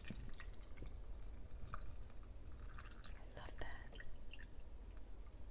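Faint dripping and trickling of liquid with scattered small clicks and taps, as coconut water is poured into a cup of fruit and jellies.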